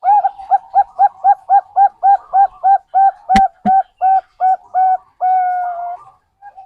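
Zebra dove (perkutut) song used as a lure: a fast run of about twenty short cooing notes, about four a second, ending in one long held coo. Two sharp clicks sound about halfway through.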